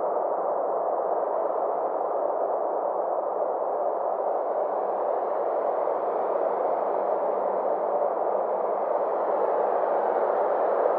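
Steady synthesized space-ambience drone: an even rushing noise centred in the middle range, its upper edge slowly rising and falling over several seconds.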